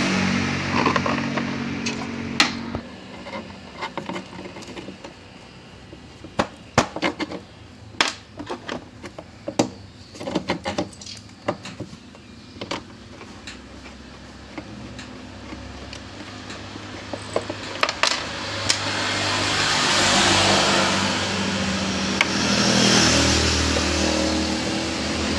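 Scattered sharp clicks and knocks of hand work with small parts and tools, dense in the first half. Later a steady noise with a low hum swells up and holds.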